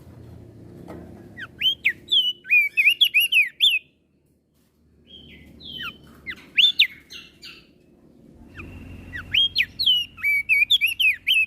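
Crested white-eye (opior jambul) singing: three bursts of fast, sharp chirping notes, the first about a second in, with short pauses between them.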